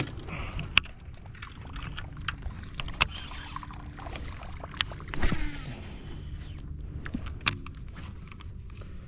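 Clicks and knocks on a fishing boat over a steady low rumble, with a louder clatter about five seconds in.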